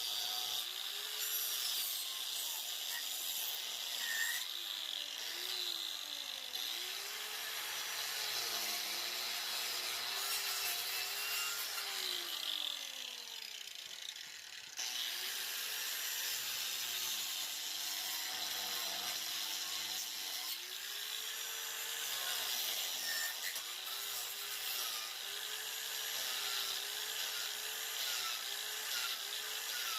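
Angle grinder fitted with a 4-inch chainsaw-chain wood carving disc cutting into wood, its motor pitch sagging and recovering as the disc loads up in the cut. About halfway through it winds down, then runs again.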